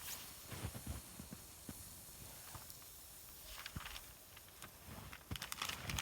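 Footsteps on snow and forest litter, faint at first and growing louder near the end, with small scattered ticks between.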